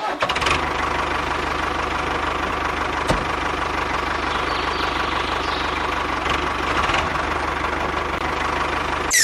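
Small engine of a homemade mini tractor running steadily with a fast, even knocking rattle. Near the end a short falling whoosh cuts it off.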